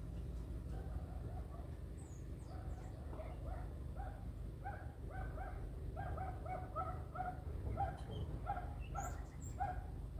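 An animal calling in a run of short, evenly repeated notes, about two a second, starting a few seconds in, over a steady low rumble.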